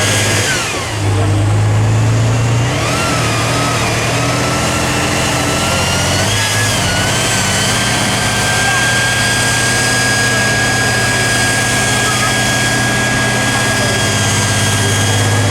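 Tatra 813 truck's air-cooled V12 diesel running under load. The engine speed falls about half a second in, picks up again around three seconds and shifts once more near seven seconds, with a steady high whine over the engine note.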